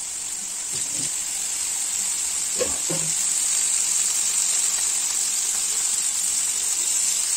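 Boneless chicken tikka pieces in a green marinade sizzling as they shallow-fry in oil in a flat pan: a steady frying hiss.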